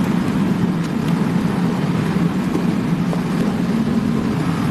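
A steady low rumble that holds even throughout, with no pitch changes and no distinct knocks.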